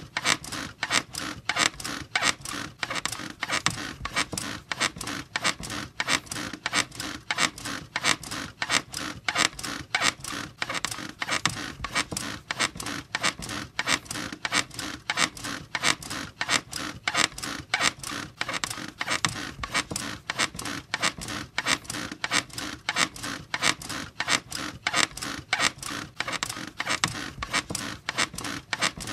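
A bed squeaking over and over in a steady back-and-forth rhythm, each stroke a short creak.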